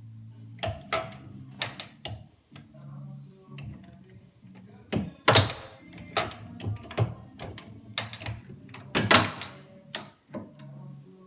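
Irregular metallic clanks and clicks, the loudest about five and nine seconds in, over a steady low machine hum, as parts or tooling are handled at a metal lathe.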